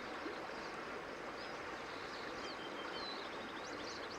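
Quiet outdoor ambience: small birds chirping repeatedly over a steady background hiss.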